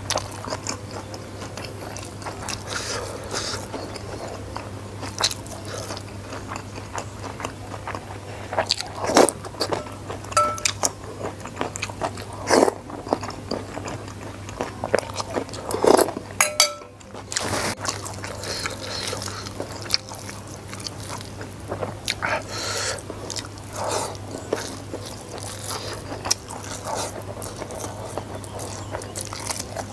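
Close-up mukbang eating sounds: a mouthful of rice, salted fish and sambal being chewed, with wet mouth smacks, bites and occasional crunches. There are a few louder smacks along the way, over a steady low hum.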